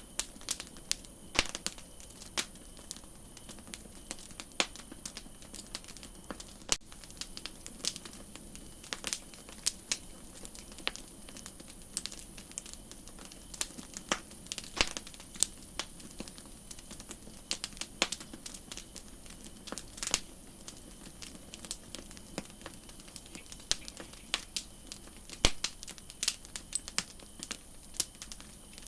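Campfire crackling: irregular sharp pops and snaps of burning wood, some louder than others, over a soft steady hiss.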